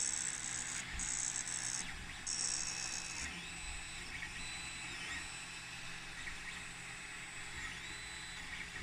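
Creality Ender 3 3D printer running, its stepper motors whining in tones that dip and shift in pitch as the head moves. A rattling, grinding sound comes from the hotend, with three louder harsh bursts in the first three seconds; the cause is unresolved.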